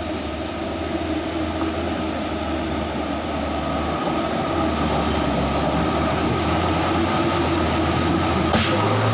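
Loaded material truck's diesel engine running steadily, slowly getting louder, with one brief sharp click near the end.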